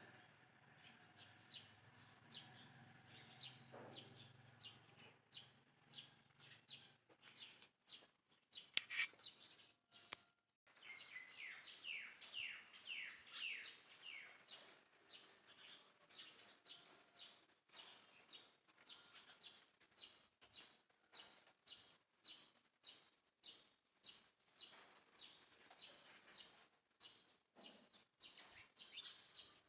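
Faint bird chirping: short, high, falling chirps repeated about twice a second, with a denser run of them around the middle.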